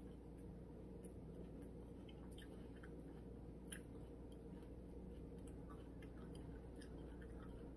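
A person quietly chewing a sub sandwich: faint, scattered small mouth clicks, with one a little louder nearly four seconds in.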